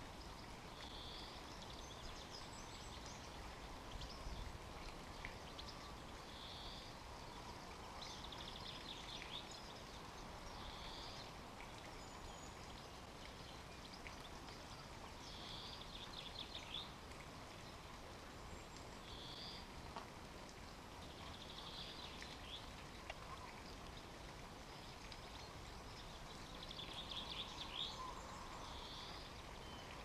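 Small garden songbirds calling faintly: short high-pitched calls every few seconds, some as quick chattering trills, over a steady low background noise.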